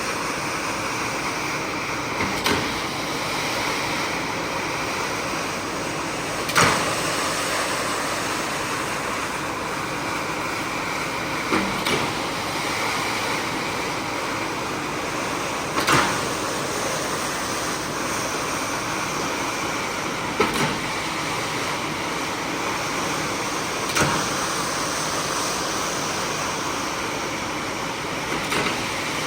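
Carpet-cleaning equipment running with a steady rushing hiss, and a sharp knock every few seconds.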